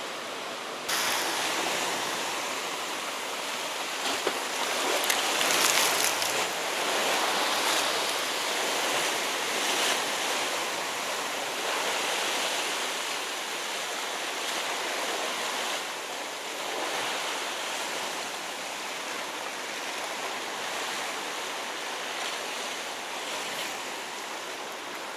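Sea waves washing against shore rocks, a steady rushing noise that swells a little about five to six seconds in.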